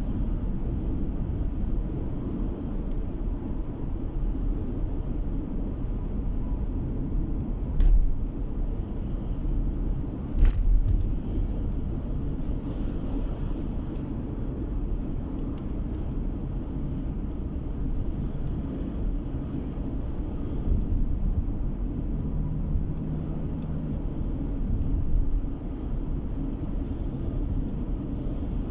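Steady low road and engine rumble of a car being driven, heard from inside the cabin. Two brief knocks sound about eight and ten and a half seconds in.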